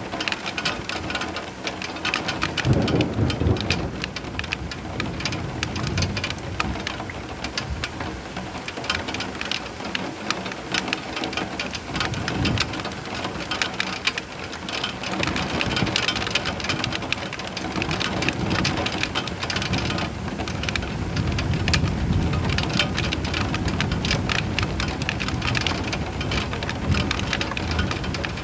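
Steady heavy rain, a dense hiss of many small drops ticking on a surface. Low rolling thunder swells about three seconds in and again for several seconds past the twenty-second mark.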